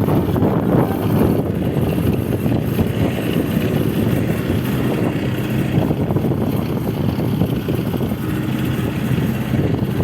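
Bobcat skid-steer loader's engine running steadily with a low hum as the machine works.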